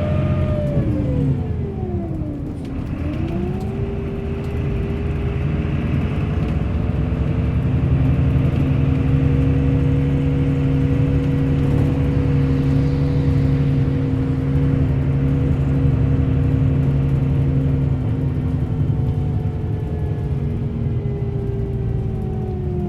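Bus engine running under way: its pitch drops about two seconds in, climbs back and holds steady for most of the stretch, then falls again near the end as the bus slows.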